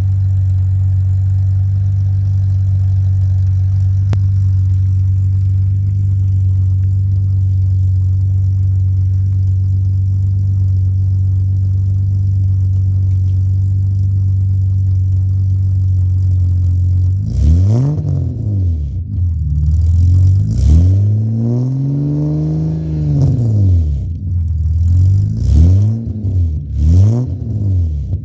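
BMW M20 straight-six idling steadily through a freshly redone headers-back exhaust with a Flowmaster muffler, then revved about seven times from a little after halfway, one longer rev held in the middle and quicker blips toward the end.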